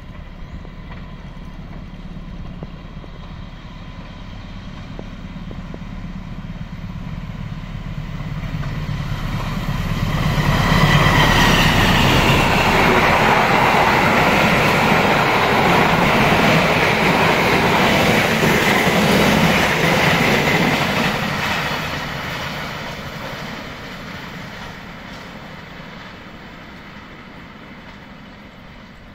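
KAI CC 206 diesel-electric locomotive hauling the Sembrani passenger train past. The engine's rumble and the wheel noise build as it approaches, are loudest for about ten seconds as the locomotive and its coaches clatter by over the rail joints, then fade as the train runs away.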